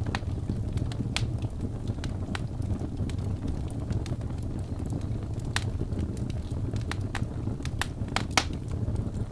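Wood fire burning in a fireplace: a steady low rumble of flames with scattered sharp crackles and pops from the logs, the loudest pop near the end.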